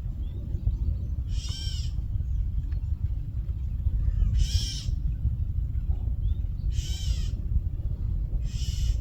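Adult bird squawking loudly in alarm, four separate calls about two seconds apart, while mobbing black snakes raiding its nest. A steady low rumble runs underneath.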